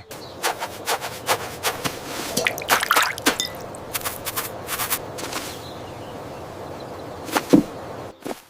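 Cartoon sound effects: a string of sharp clicks and taps over a steady hiss, with one louder knock near the end.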